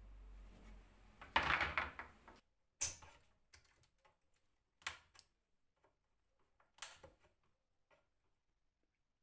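A short scraping rush, then three sharp knocks about two seconds apart, with faint clicks between: objects being handled and set down.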